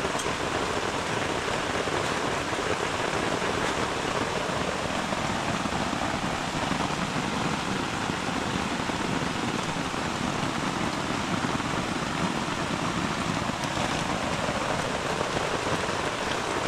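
Heavy rain pouring down steadily in a tropical rainstorm, an even, unbroken hiss of falling water.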